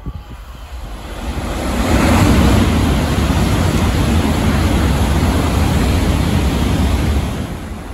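Shinkansen bullet train passing through the station at speed without stopping: a loud rush of air and wheel noise. It swells over the first two seconds, holds steady while the cars go by, and falls away near the end.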